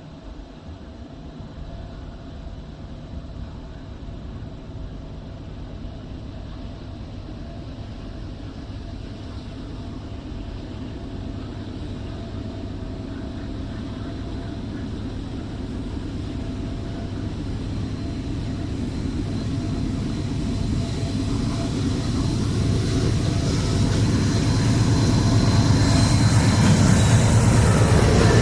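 A diesel train approaching: a low engine and rail rumble growing steadily louder, loudest near the end.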